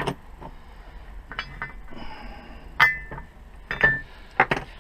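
Metal tools clinking against each other as they are picked through, with about six sharp knocks, a few of them ringing briefly.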